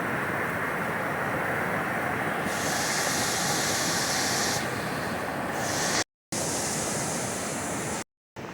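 Steady rush of a fast-flowing creek and its spillways. The sound cuts out completely twice, briefly, about six and eight seconds in.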